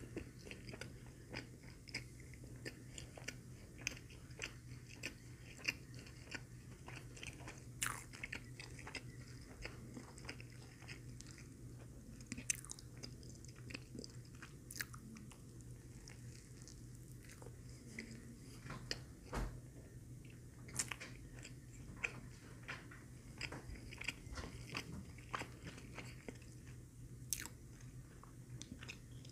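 Close-miked eating of a Filet-O-Fish sandwich (soft bun, breaded fish fillet): bites and steady chewing with many small, irregular wet mouth clicks, over a faint steady low hum.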